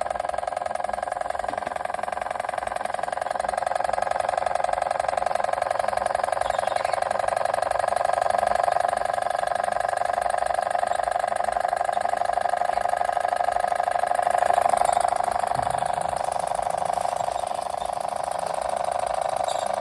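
Machinator Steamfire model oscillating steam engine running steadily at speed, its exhaust puffing in a rapid, even beat.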